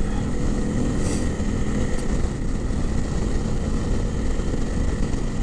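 Honda CRF300L's single-cylinder engine running steadily at riding speed, with wind rushing over the helmet microphone.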